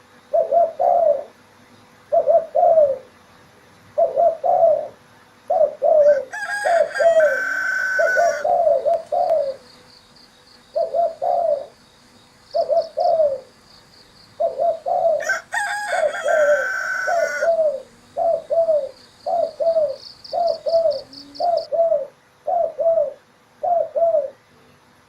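Spotted dove (tekukur) cooing over and over, short two- and three-note coos repeated about every second and a half. Twice a rooster crows over it, each crow about two seconds long, and a faint high pulsing chirp runs through the middle.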